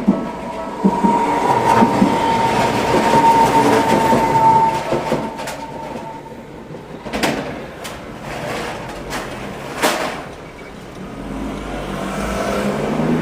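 Two-car Tokyu Setagaya Line 300-series light-rail train running past, with a steady high whine over the running noise for the first few seconds, then sharp wheel clicks over the rails about 7 and 10 seconds in. A low rumble builds near the end.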